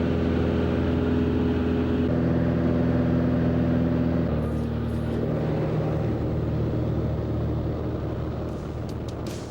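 Skydiving plane's engine and propeller droning steadily during the climb, heard inside the cabin, with its pitch shifting a couple of times.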